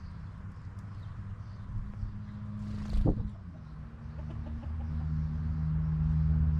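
Chickens clucking over a low steady rumble that grows louder toward the end, with one sudden sharp sound about three seconds in.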